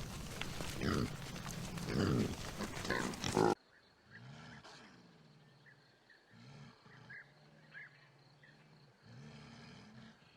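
Animal calls from two clips: a loud, noisy stretch with short low calls, then, after a sudden cut about three and a half seconds in, several quieter, drawn-out low calls one after another.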